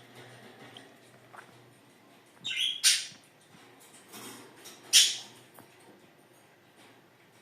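Pet parrots squawking: two loud, harsh calls, the first about two and a half seconds in and the second about five seconds in.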